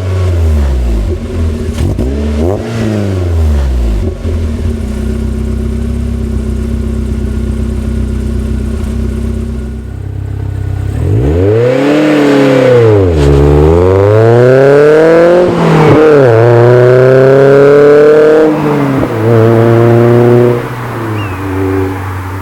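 MG TF four-cylinder engine with an aftermarket TT exhaust, loud under acceleration. The revs swing up and down at first and then hold steady for several seconds. About halfway through they climb and fall twice, as if through gear changes, then pull steadily at higher revs before easing off near the end.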